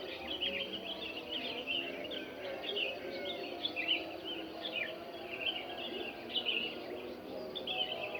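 Dawn chorus of many small birds chirping and twittering in quick, overlapping short calls, over a steady lower background hum.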